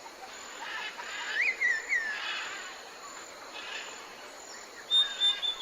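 Songbirds calling over a steady background of hiss and a thin high insect-like drone: a warbling phrase of quick up-and-down notes about a second in, and a loud high whistled note near the end.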